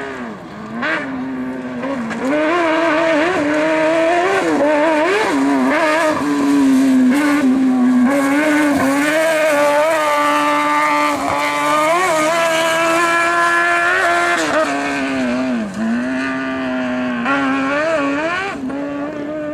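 Rally car engine revving hard on a gravel stage, its pitch climbing and dropping again and again with throttle and gear changes, louder from about two seconds in, with a few quick lifts along the way.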